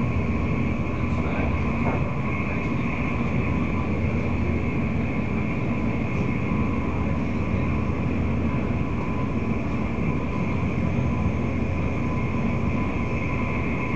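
Passenger train running at speed, heard from inside the carriage: a steady rumble of wheels and track with a faint, steady high tone above it.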